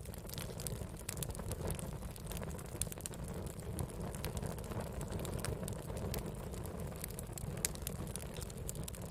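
Wood fire burning steadily with a low rumble and frequent irregular sharp crackles and pops of burning wood.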